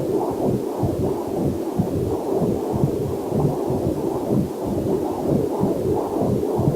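Heartbeat picked up by a fetal doppler heart monitor: a fast, even run of pulsing whooshes, muffled with the sound held low.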